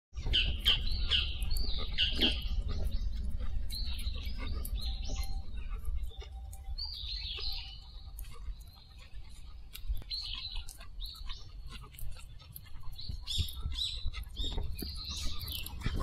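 Wild birds chirping in short clusters of quick, high calls, several bursts spaced a second or a few seconds apart, over a low steady rumble.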